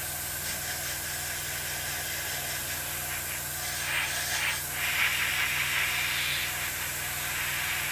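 Airbrush hissing as it sprays paint at a low air pressure of 8 to 10 psi, the spray growing louder and brighter for a couple of seconds about four seconds in, over a steady low hum.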